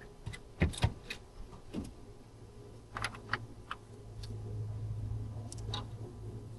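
Scattered light clicks and knocks of work on a car, about eight in all, with a low steady hum that comes in about halfway through.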